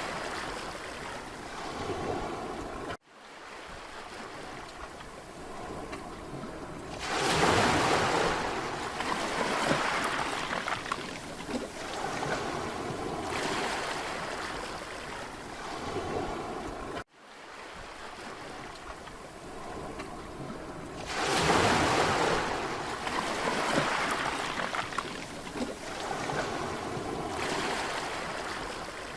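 Sea waves breaking and washing up a beach, rising and falling in swells every few seconds, with a larger wave twice. The sound cuts out for an instant about 3 seconds in and again about 17 seconds in, where the recording is looped.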